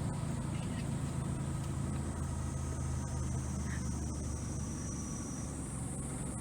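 Small sightseeing boat's motor running steadily under way, a low even drone with a faint high hiss over it.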